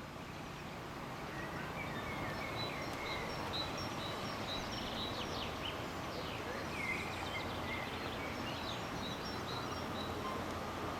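Small birds chirping and calling over steady outdoor background noise.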